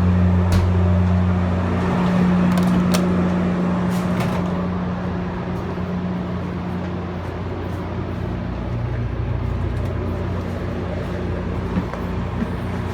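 Stationary MARC commuter train humming steadily at the platform, a low, even drone with a few sharp clicks in the first few seconds.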